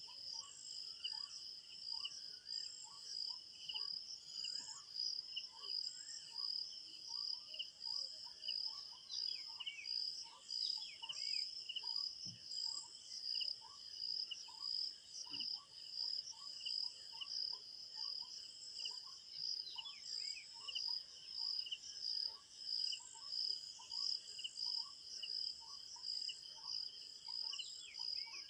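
Crickets chirping in a steady, fast-pulsing chorus, with a short lower note repeating about every second and a few brief falling bird calls.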